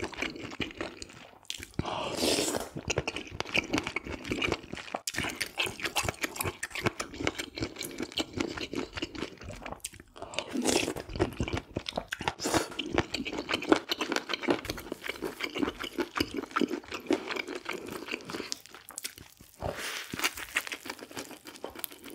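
Close-miked eating: steady crunchy chewing and mouth noises, with a few louder noisy spells.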